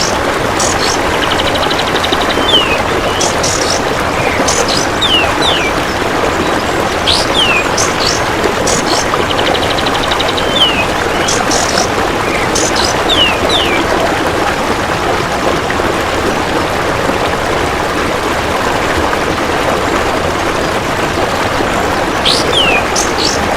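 Steady running-water noise with repeated bird calls over it: quick downward-sliding whistles and sharp high chips, of the kapas tembak bird. Short fast-pulsed buzzing trills of a golden grasshopper come in between them twice. The calls stop for several seconds past the middle, leaving only the water, and return near the end.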